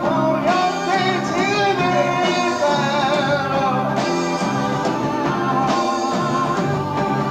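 A progressive rock band playing live, on an amateur tape recording, with a sung melody over guitar, bass, keyboards and drums.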